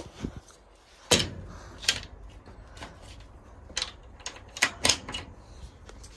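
Several sharp, irregular knocks and clicks, spaced unevenly a second or so apart, the loudest about a second in.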